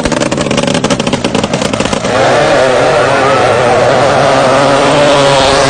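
Racing boat engine running with rapid, even popping pulses, then opening up about two seconds in to a loud, steady drone at high revs with a wavering pitch.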